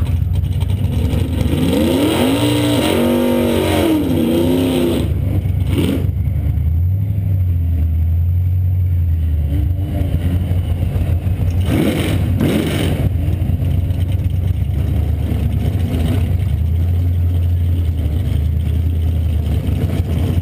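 1999 Camaro Z28's LS1 V8, with long-tube headers and a Borla exhaust, idling with a steady deep drone. An engine revs up and down several times between about two and five seconds in.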